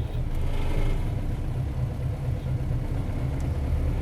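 Isuzu Cubic city bus's 8PE1-S V8 diesel engine running with a steady low rumble, heard from inside the bus.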